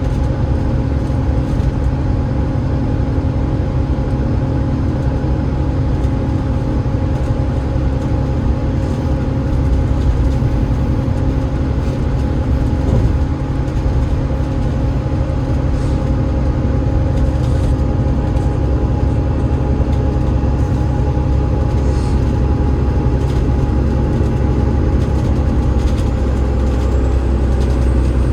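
Alexander Dennis Enviro500 MMC double-decker bus with a Cummins ISL8.9 diesel and ZF EcoLife automatic gearbox, running steadily: a constant low engine and drivetrain drone with a few steady whining tones. A faint high whine rises near the end.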